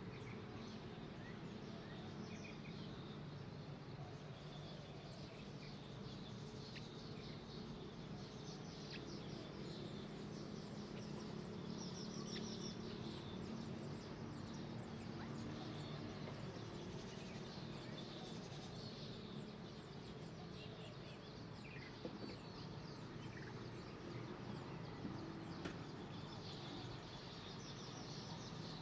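Small birds chirping and twittering in short high bursts again and again, over a steady low background hum, with a couple of faint clicks in the second half.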